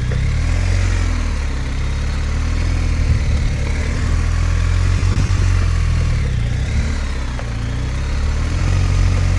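Motorcycle engine running at low revs through a slow-speed cone weave, holding a steady low note that rises and dips slightly with the throttle.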